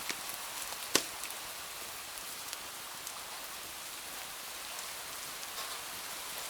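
Steady rain falling, mixed with the sparse crackle of a wood fire in a fireplace, with one sharp pop about a second in.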